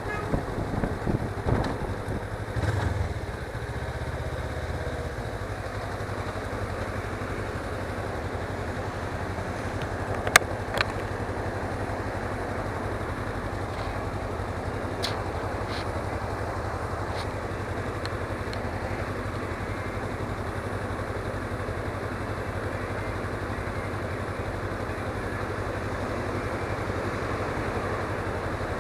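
Suzuki V-Strom 250's parallel-twin engine running steadily under riding noise, recorded on a cheap action camera. There are some uneven knocks in the first few seconds and a sharp click about ten seconds in.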